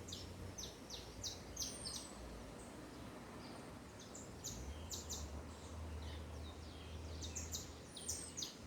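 Several small birds chirping in short, quick high notes, busiest at the start and near the end, over a low hum that comes and goes.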